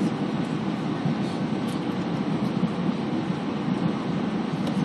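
Steady low rumble of engine and airflow noise heard inside the cabin of an Airbus A320 airliner.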